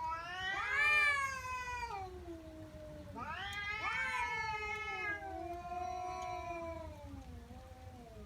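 Angry domestic cat's threat yowl: one long, low, drawn-out wail that swells twice into louder rising-and-falling howls, about a second in and again around three to five seconds in, then sinks back to a lower moan.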